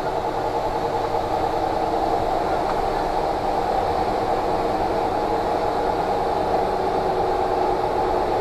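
Interior noise of a passenger train coach: a steady hum and rumble with a few faint steady tones, growing slightly louder.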